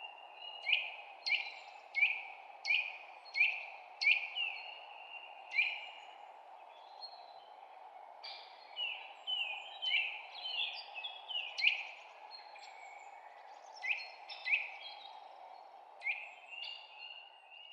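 Birds chirping: a string of sharp, downward-sliding chirps repeated about once or twice a second, then a busier tangle of overlapping calls, and a few more single chirps near the end. A steady low rushing background noise runs underneath.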